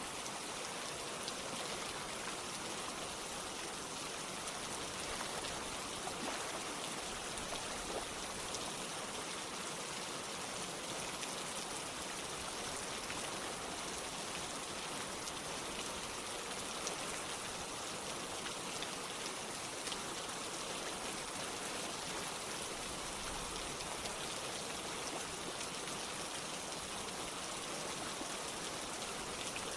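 Steady rain with flowing water, an even wash of noise with faint scattered drop ticks.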